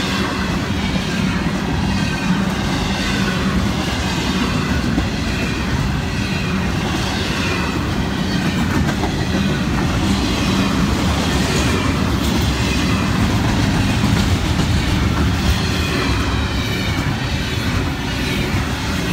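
Florida East Coast Railway double-stack intermodal freight cars rolling past: a steady rumble and clatter of steel wheels on the rails.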